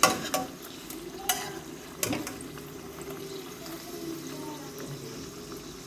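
Samosas frying in shallow oil in a stainless steel pot with a steady sizzle. A metal spatula clicks against the pot three times in the first two seconds as the pieces are turned.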